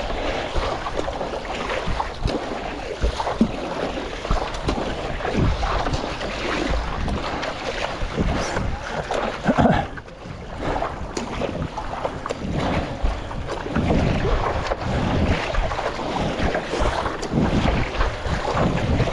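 Wind buffeting the microphone over water sloshing and splashing around a stand-up paddleboard in choppy typhoon swell, with a brief lull about ten seconds in.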